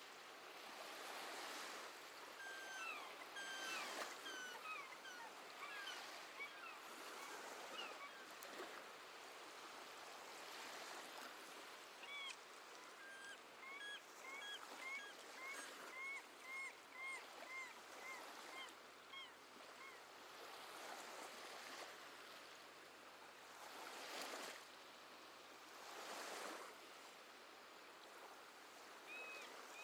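Gentle sea waves washing on the shore in a steady wash with slow surges, while seabirds give short chirping calls, with a quick run of about two calls a second in the middle.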